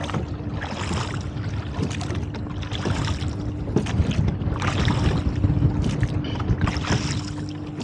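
A rowboat being rowed into a strong gusty wind: the oars stroke about every two seconds, each stroke bringing a rush of water and splashing, over a steady rumble of wind on the microphone and a faint steady hum.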